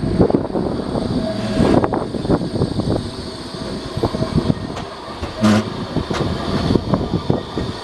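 Rail vehicle running along the track, its wheels making irregular knocks and clatter over a steady rumble. A faint steady tone stops about two seconds in.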